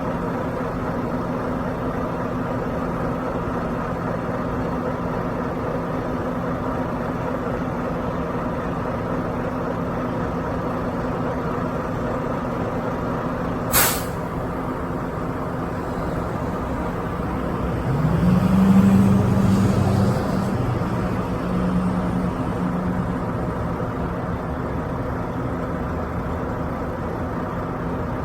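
Semi truck diesel engine running steadily at low revs, with one short sharp air hiss about halfway through, typical of the air brakes. Near the end an engine briefly revs up, rising in pitch and growing louder for a couple of seconds before settling back.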